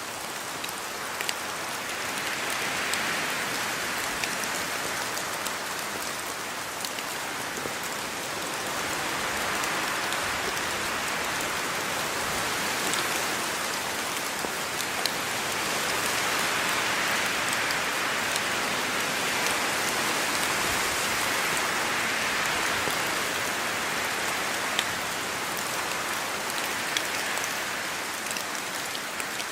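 Steady rain falling: an even hiss with scattered sharp ticks of individual drops, swelling a little in the middle and easing off again.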